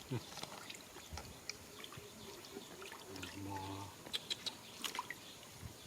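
Shallow water splashing and dripping as hands move through it, with a cluster of small sharp splashes about four seconds in.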